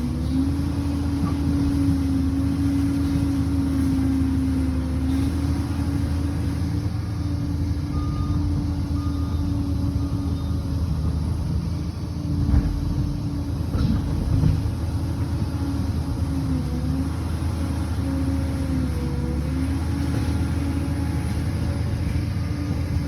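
Liebherr PR 746 bulldozer's diesel engine running steadily with a strong, even hum. The pitch dips briefly a few times near the middle, with a couple of knocks.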